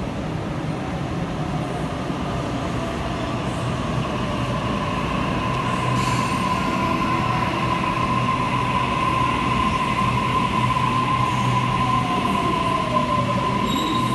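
Electric suburban train running into an underground station platform, its rumble slowly growing louder. A steady high wheel squeal sets in about a third of the way through and holds, while a lower whine falls in pitch as the train slows.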